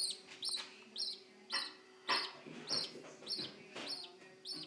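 Budgerigar nestling cheeping in a steady run of short high calls, about two a second, with harsher, noisier calls mixed in: a chick's begging calls.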